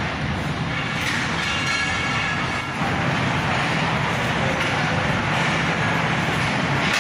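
Steady rumble of a passenger train at the platform, a little louder from about three seconds in.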